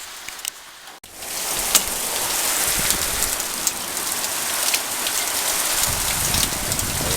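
Heavy rain pouring onto surfaces, a steady hiss with scattered sharp drop hits. After a brief break about a second in it becomes much louder.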